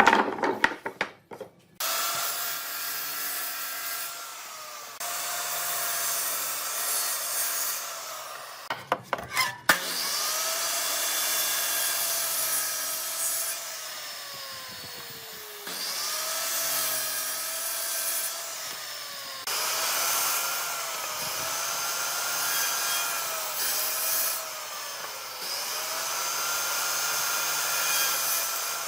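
Hand-held electric power tool working wood: its motor whine dips in pitch each time it bites and recovers as it eases off. Partway through it glides down as it winds off, then starts again. There are a few sharp knocks near the start and about nine seconds in.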